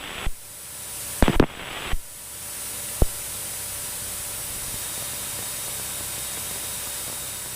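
Steady, even hiss of cockpit noise in a Cessna 172 in flight, as picked up on the headset or intercom audio. A few short clicks come in the first three seconds.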